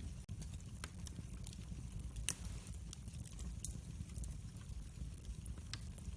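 Wood fire burning with a low steady rumble and scattered sharp crackles, one louder pop about two seconds in.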